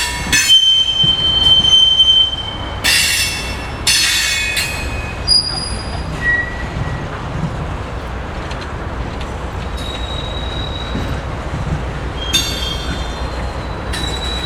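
A train rolling past with a steady low rumble and steel wheels squealing against the rail in several high-pitched tones lasting a second or two, the longest and loudest about half a second in.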